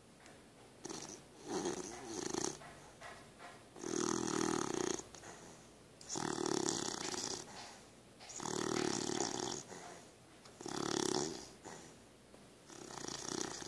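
A sleeping puppy snoring: about six snores, each about a second long, at a slow, even pace of roughly one every two seconds.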